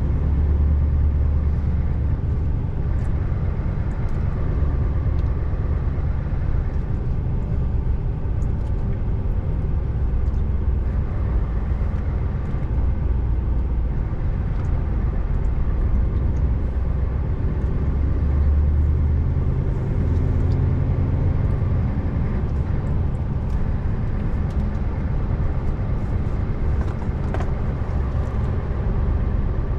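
Scania R590 truck's 16-litre V8 engine running steadily under way, a deep continuous drone mixed with road noise, its note shifting briefly about two-thirds of the way through.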